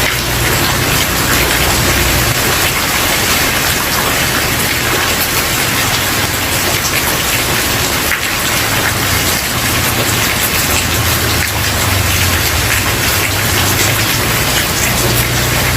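Steady heavy rain falling on a wooden porch, a dense, even patter of many drops. Underneath it a low rumble swells and fades a few times.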